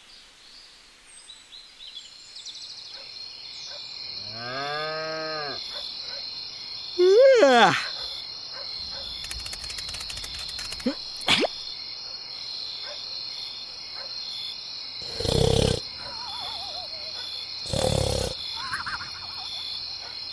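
Cartoon sound effects over a steady high-pitched ringing background: a cow moos once about four seconds in, then comes a loud falling glide. Near the end there are two breathy snore sounds about two seconds apart.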